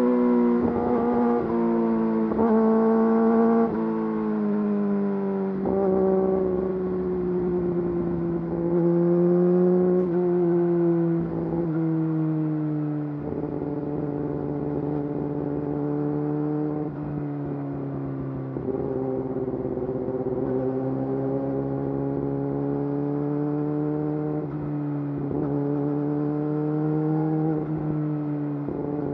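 Yamaha YZF-R6's 600 cc inline-four running through an Akrapovič full exhaust system. The engine note falls gradually over the first half, broken by several brief blips and gear changes, then holds a steadier, lower note with gentle rises and falls.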